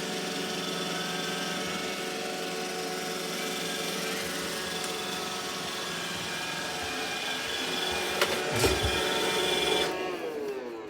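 Roomba's auto-empty base running its suction motor to empty the robot's bin into the bag, a steady whine with a few knocks, then winding down with a falling pitch near the end.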